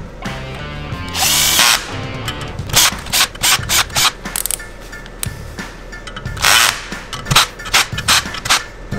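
Power tool running in two short bursts, with runs of sharp mechanical clicks in between, over background music.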